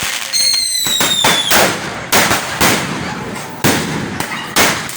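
Fireworks going off in quick succession: repeated sharp bangs with crackling between them. About half a second in, a high whistle falls slightly in pitch for about a second.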